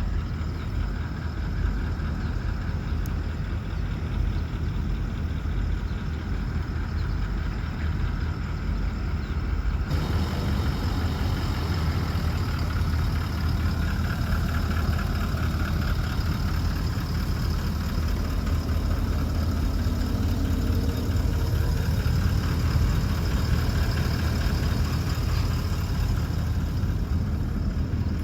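Toyota Land Cruiser pickup's 4.5-litre V8 turbo diesel idling steadily, the sound turning brighter and fuller about ten seconds in.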